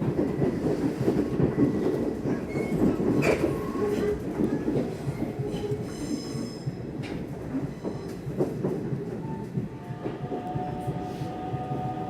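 Nishitetsu electric commuter train running at speed, heard from inside the car: a steady rumble of wheels on rail with scattered clicks over the joints. Near the end a faint, slightly rising whine comes in.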